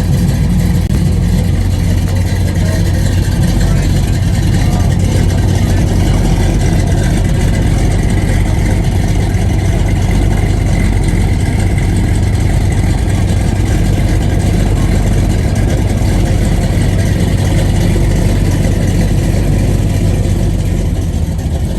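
A car engine running steadily at idle, loud and even, with a deep hum.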